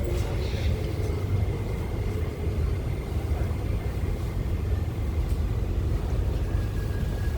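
MTR IKK-Train electric multiple unit running on the rails: a steady low rumble with a faint high whine that dips slightly in pitch near the end.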